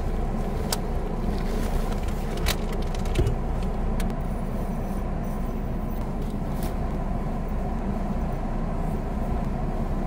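Steady low rumble of a car idling, heard from inside the cabin, with scattered short clicks and rustles as a blanket and insulated bag are folded.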